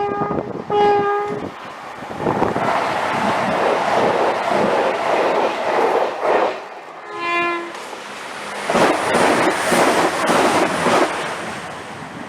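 A passing train sounds its horn: two blasts near the start, then a lower note about seven seconds in. Between and after the horn notes, the train runs past with a rhythmic clatter of wheels over the rail joints.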